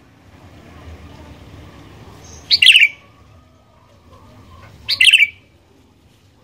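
Sooty-headed bulbul (kutilang) calling twice: two short, loud phrases about two and a half seconds apart.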